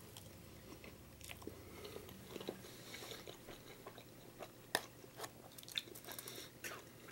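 A person chewing a bite of waffle fry from a poutine with gravy and cheese curds: faint, scattered crunches and mouth clicks, a few sharper ones in the second half.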